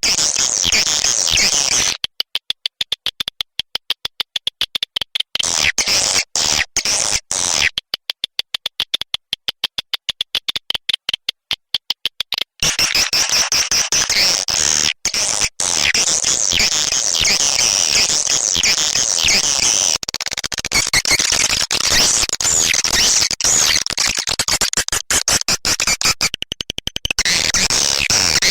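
Swiftlet calling-sound lure recording of edible-nest swiftlets. For the first part it is rapid trains of dry clicks in quick succession; from about 12 seconds in it becomes a dense, continuous high chirping and twittering.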